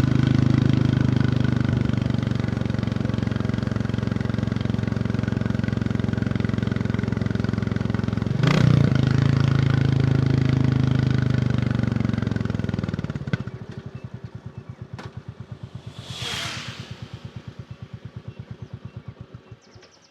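Royal Enfield Bullet 350 single-cylinder engine running steadily under load, with a brief change in its note about eight seconds in. About thirteen seconds in it drops off the throttle to a quieter, even idle thump, and a brief whoosh swells and fades near the end.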